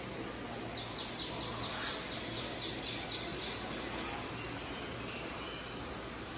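Steady low rumble and hum of a train at a station platform, with a rapid run of high chirps, about five a second, starting about a second in and stopping a little after halfway.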